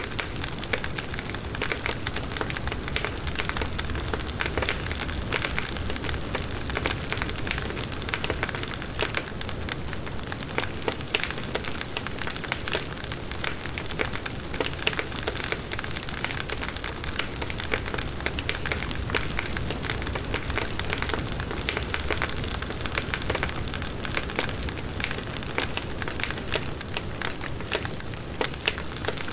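Campfire of firewood logs burning, with a steady hiss and dense, continuous crackling and popping.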